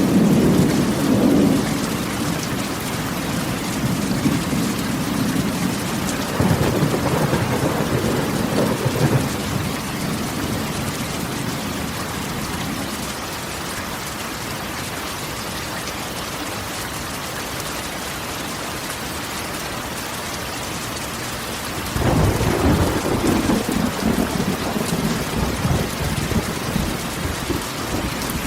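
Steady rain on a corrugated metal roof, with thunder rumbling three times: at the start, about seven seconds in, and again from about 22 seconds in.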